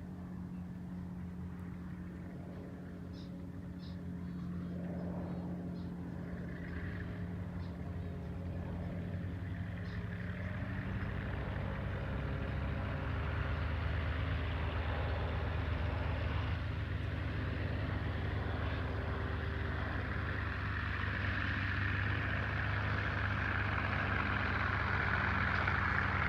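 Piston engine of a WWII fighter plane running at low power with a steady drone, growing louder toward the end as the aircraft comes closer.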